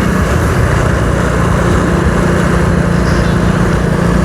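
Motorcycle engine running steadily at cruising speed, an even hum under a steady rush of road and wind noise.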